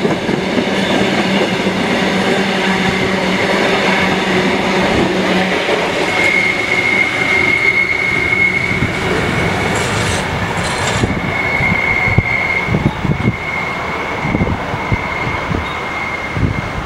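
Narrow-gauge heritage steam train's carriages rolling past and pulling away, wheels running on the rails. From about six seconds in, a steady high-pitched wheel squeal sets in and lasts to the end, with a scatter of knocks from the wheels in the later seconds.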